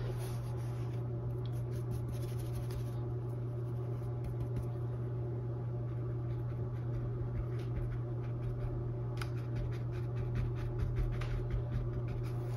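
Paintbrush bristles scratching and dabbing on a stretched canvas in short strokes, in two spells of busier brushwork. A steady low hum runs underneath.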